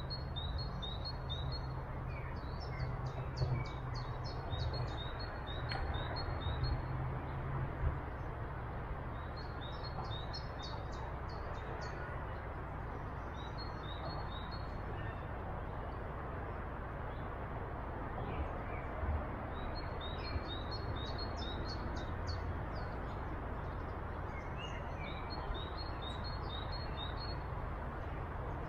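Songbirds singing: short phrases of quick, high notes repeated every few seconds, over a steady rushing background noise.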